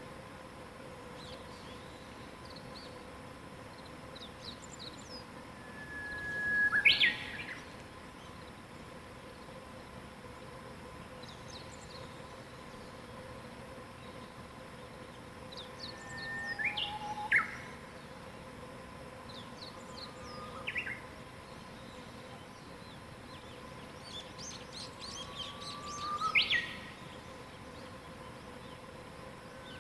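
Wild birds singing: one bird repeats a loud phrase four times, roughly every ten seconds, each a held whistle that jumps into a quick higher flourish, while other birds give fainter high chirps.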